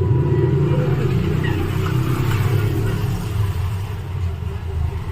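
Motorcycle engine running while riding, a steady low hum with road noise.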